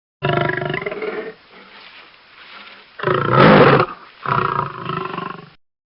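A big cat roaring: three calls, the second, about three seconds in, the loudest.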